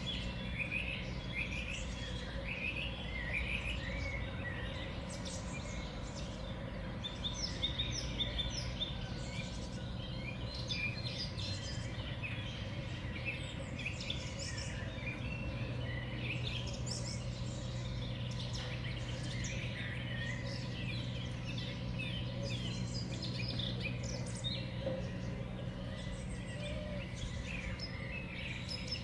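Many small birds chirping and calling at once, short high calls following each other throughout, over a steady low hum.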